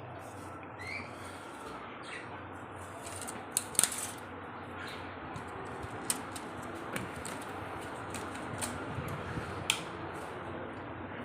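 A parrot gives a short rising chirp about a second in, among scattered sharp clicks and taps over a steady background hiss.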